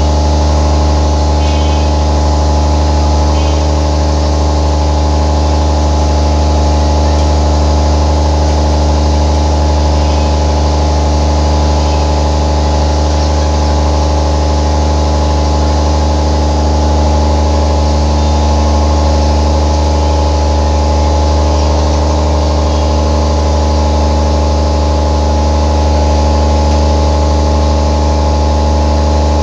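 Generator running steadily with a loud, even drone that does not change in pitch or level.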